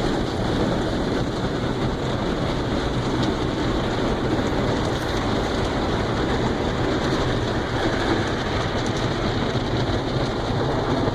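Automatic car wash running over the car at the wax stage: a steady rush of spray on the body together with the wash machinery, heard from inside the car's cabin.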